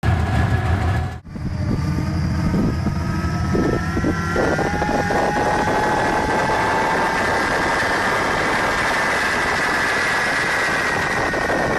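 An engine running steadily under load, its pitch climbing slowly over several seconds and then levelling off.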